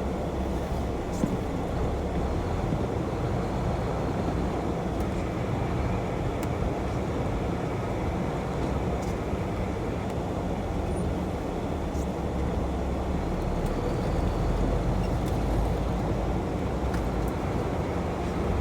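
Car-hauler semi truck driving down the road: a steady drone of engine and road noise.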